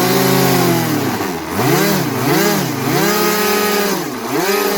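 Twin stock electric motors and propellers of a Twinstar II RC plane running loud, with the throttle eased off and opened again several times so the pitch dips and climbs back in repeated swoops.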